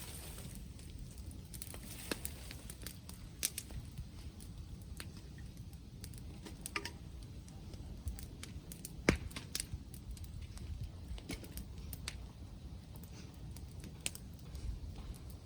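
Wood bonfire crackling: irregular sharp pops, one louder about nine seconds in, over a low steady rumble.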